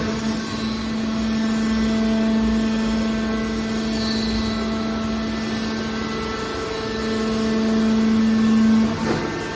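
Hydraulic scrap metal baler's power unit running with a steady hum at one fixed pitch, growing louder in the last couple of seconds.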